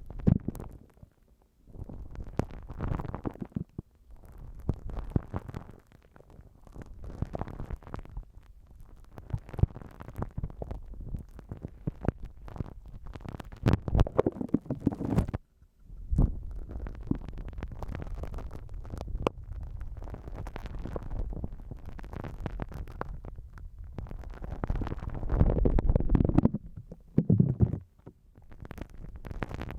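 Slime being squished and kneaded against a binaural microphone: wet, crackly squelching in uneven waves, heaviest in the low end.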